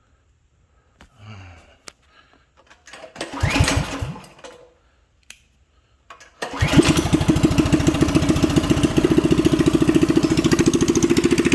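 Coleman CT200U mini bike's single-cylinder four-stroke engine, with a short straight pipe in place of its muffler, being pull-started on choke. A first pull about three seconds in turns it over without catching. On the next pull, about six and a half seconds in, it fires and keeps running steadily with a fast, even exhaust beat.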